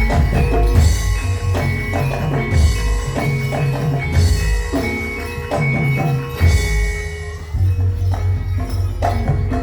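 Live Javanese traditional percussion ensemble music accompanying an imblig (kuda lumping) dance: ringing metal keyed instruments sounding steady tones over repeated low drum strokes.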